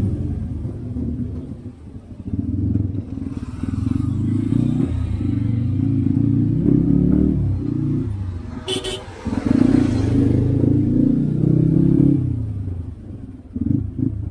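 Motorcycle engine running under a riding mic, its pitch and level rising and falling as it pulls through traffic, with a short vehicle horn toot about nine seconds in.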